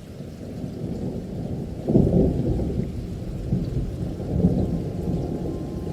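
Thunderstorm with rain, muffled and without any high hiss. The storm swells up over the first second, a loud thunder clap breaks about two seconds in and rumbles on, and a second, smaller rumble swells later.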